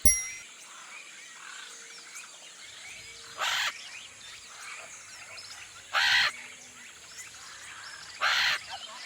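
Bird ambience: small birds chirping continually over a steady high hiss, broken by three loud harsh caws spaced about two and a half seconds apart.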